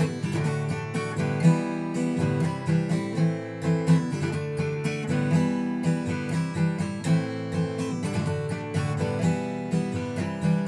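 Acoustic guitar strummed in a steady rhythm, the chords changing every couple of seconds.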